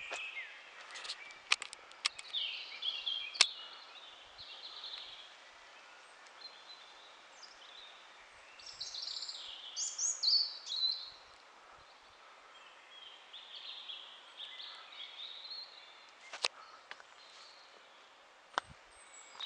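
Small woodland birds chirping, in scattered bursts of short high calls over a faint steady outdoor hiss, busiest about ten seconds in. A few sharp clicks stand out, the loudest in the first few seconds.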